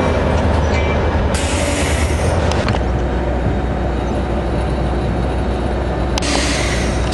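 Diesel-hauled NJ Transit passenger train at close range: a steady low diesel drone, with a burst of hiss about a second in and another near the end.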